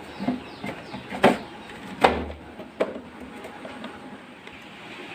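A series of sharp knocks and clatters, like hard household objects being handled and set down. The loudest come about a second in and two seconds in, the second with a dull thump, then a faint steady hiss.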